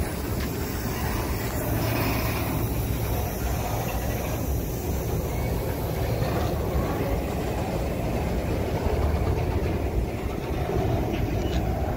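Covered hopper cars of a freight grain train rolling slowly past, making a steady rumble of steel wheels on the rails.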